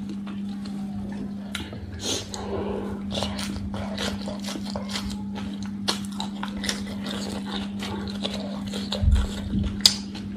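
Close-miked chewing and mouth sounds of a person eating a shredded raw vegetable salad and rice by hand: irregular wet smacks and small crunches, with a steady low hum underneath and a couple of louder thumps near the end.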